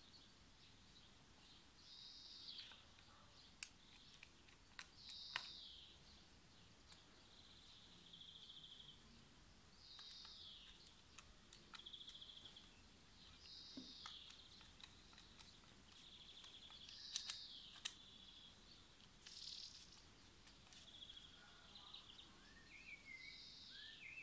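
Faint bird calls outdoors: a short high chirp, often followed by a buzzy trill, repeated every two to three seconds. A few small sharp clicks stand out, from a screwdriver working the screw on a large knife's handle.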